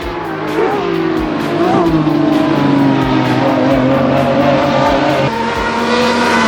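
Sports-car engine sound effect at high revs, with two short blips early on and then a slow, steady fall in pitch.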